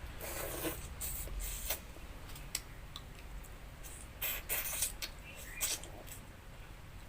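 Close-up eating sounds from a meal of pakhala (water-soaked rice) with fish curry: a series of short hissy bursts of chewing and handling of the food, with a few sharp clicks.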